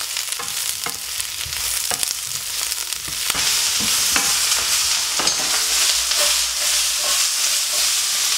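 Pak choy stems and tofu sizzling in oil in a hot frying pan, with short knocks of a wooden spatula against the pan as they are stirred. The sizzle grows louder about three seconds in.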